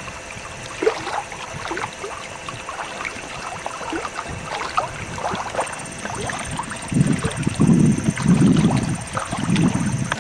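Canoe on the water: scattered small splashes and drips, then a run of four loud low rumbling pulses in the last few seconds.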